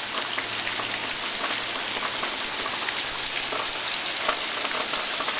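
Heavy torrential rain pouring down: a dense, steady hiss of rain on surfaces dotted with many small drop splashes, picking up in intensity again.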